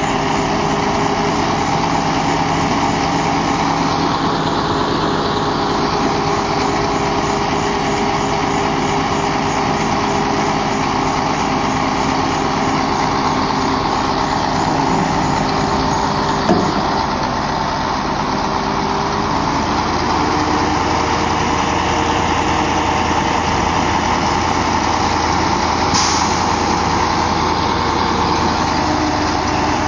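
Heavy truck engine running steadily, settling to a different speed a little past halfway, with a short sharp sound just before the change and a brief hiss later on.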